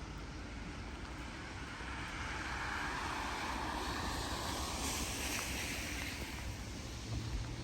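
A vehicle passes on a wet road: the hiss of its tyres on wet asphalt swells over a few seconds, peaks about five seconds in, and fades. Steady rain noise lies underneath.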